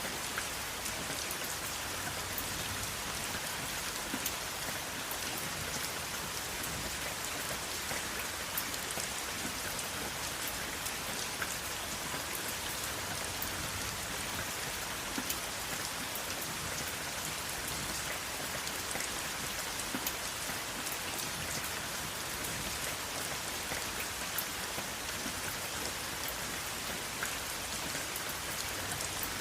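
Steady rainfall, an even hiss of rain with scattered individual drops pattering on a surface; no thunder.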